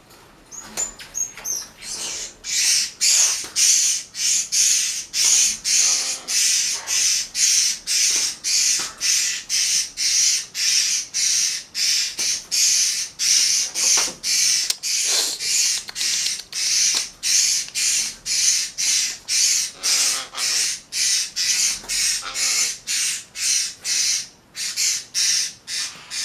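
A parakeet screeching harshly and repeatedly, about two calls a second.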